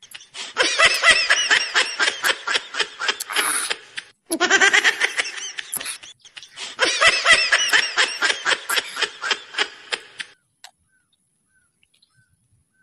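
High-pitched laughter in three long runs of rapid 'ha-ha' pulses, stopping about ten seconds in.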